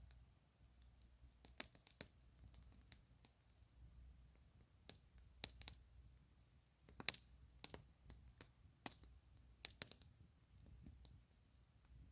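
Campfire crackling: sharp pops and snaps at irregular intervals, the loudest about seven seconds in, over a faint low rumble.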